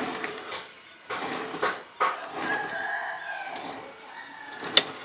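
Rooster crowing: a long drawn-out call that falls away at the end, followed by a sharp click near the end.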